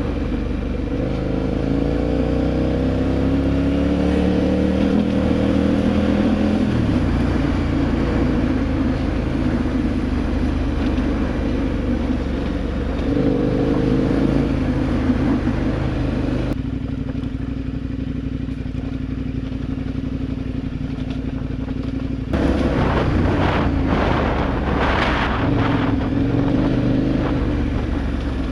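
KTM V-twin adventure motorcycle engine running under way, rising in pitch as it accelerates over the first several seconds, then holding steady with wind and road noise. About two-thirds through the sound changes abruptly to a duller, steadier engine drone, and near the end jumps back to louder wind noise with rattling.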